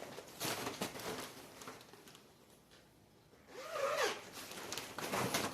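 Rustling and scraping of plastic parts and packaging being handled during greenhouse assembly, in scratchy spurts with a quieter pause in the middle, and a short wavering hum-like sound about four seconds in.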